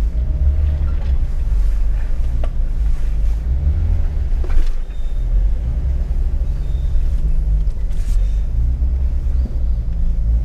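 Jeep engine running low and steady while crawling along a rough off-road trail, with a few faint knocks about two, four and a half, and eight seconds in.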